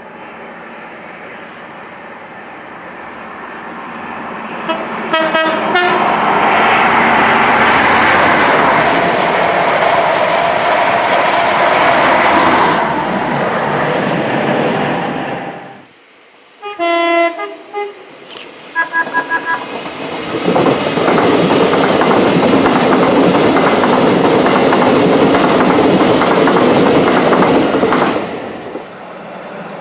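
Mainline express trains passing at speed. A train approaches, sounds a short horn blast about five seconds in and rushes past. After a sudden break come a few short horn toots and a second train rushing past.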